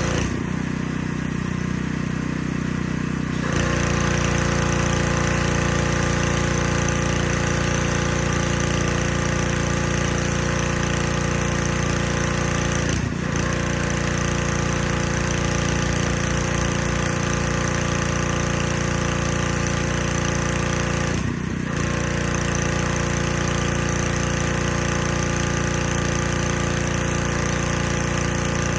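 A motor running steadily with an even, rattly hum. The sound shifts briefly a few times, as if cut between shots.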